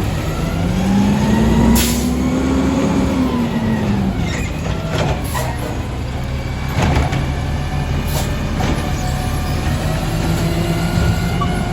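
Garbage truck's diesel engine running, rising in pitch over the first few seconds and settling back, with several sharp metallic clanks.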